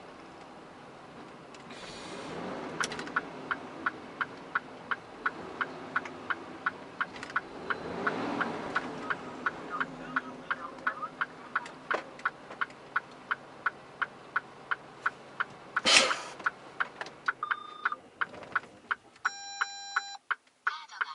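Cab of a Mitsubishi Fuso Super Great truck: the indicator relay ticks steadily, about two and a half clicks a second, over the 6R20 diesel idling. About sixteen seconds in there is one short loud hiss, then the engine hum stops and an electronic warning chime sounds near the end.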